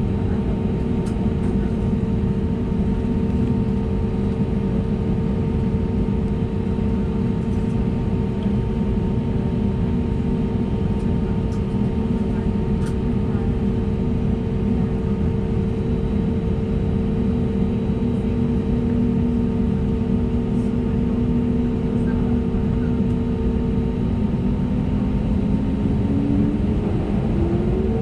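Airbus A320neo's CFM LEAP-1A engines heard from inside the cabin on the ground: a steady engine hum with two held tones, which begin to rise in pitch near the end as the engines spool up.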